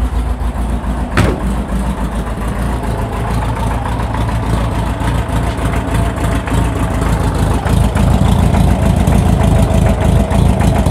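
VW Beetle's air-cooled Type 4 flat-four engine running at idle through a newly built sidewinder header with a side-exit pipe, giving a steady low exhaust rumble. A single sharp click about a second in, and the engine grows a little louder over the last few seconds.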